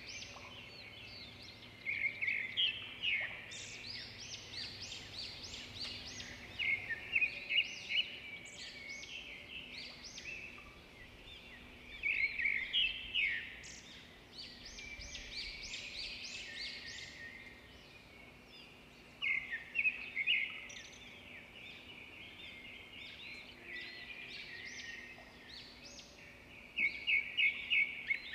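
Small birds chirping: bursts of rapid, high chirping notes every few seconds, over a faint steady hum.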